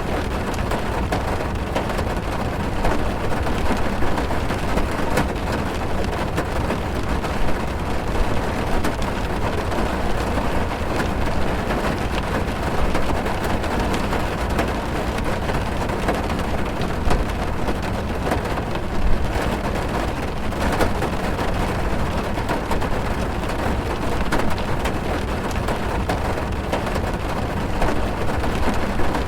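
Rain drumming on a car's roof and windows, heard from inside the cabin: a steady, dull patter with many small drop ticks and a deep rumble.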